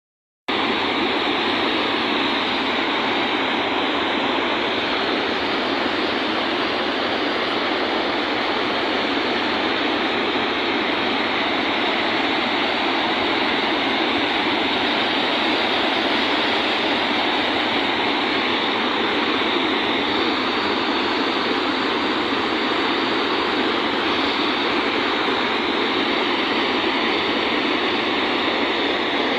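Steady rushing noise of a car driving in the rain: tyres on a wet road and rain on the car, cutting in abruptly about half a second in and holding even throughout.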